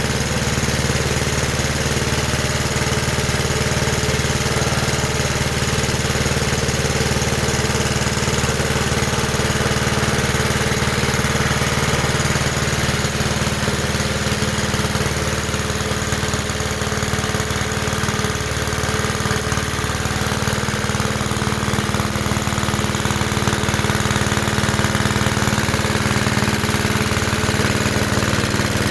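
Johnson Iron Horse 'Chore Horse' generator set's small gasoline engine running steadily, driving its 12-volt DC generator on a test run.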